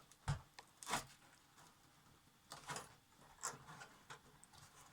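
An LED backlight strip being peeled off the TV's back panel, where it was stuck down with silicone: a few short, faint rasps and clicks with quiet gaps between them.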